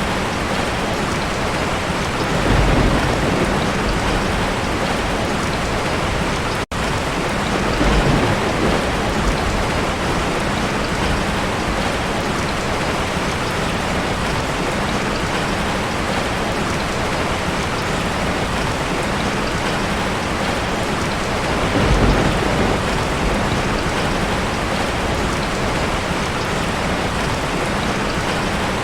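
Heavy rain pouring steadily, with low thunder rumbling three times: early, about a third of the way in, and about three quarters of the way through. The sound cuts out for an instant about a quarter of the way through.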